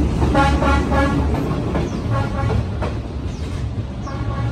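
Vietnam Railways D12E diesel locomotive passing at very close range, its engine rumbling low while the wheels knock over rail joints, with the horn sounding in short toots; the passenger carriages follow it past.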